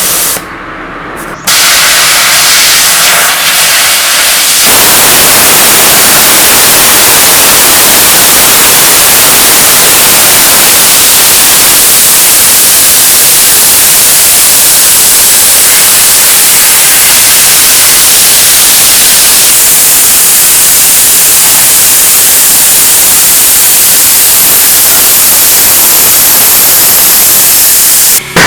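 A loud, steady hiss of rushing air or spray. It starts about a second and a half in, gets louder a few seconds later, holds steady and cuts off suddenly near the end.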